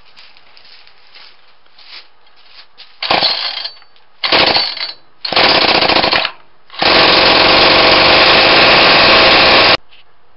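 Homemade two-stroke weed trimmer engine with a JB Weld epoxy cylinder firing in three short bursts, then running flat out for about three seconds before stopping abruptly.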